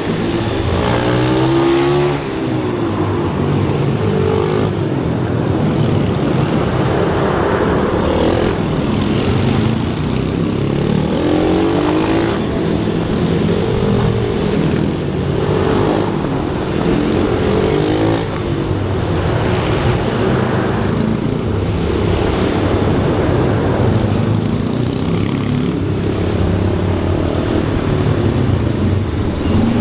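Small motorcycle engine running hard and revving up and down over and over, the pitch climbing and dropping every couple of seconds, as when riding laps on a kart-style track.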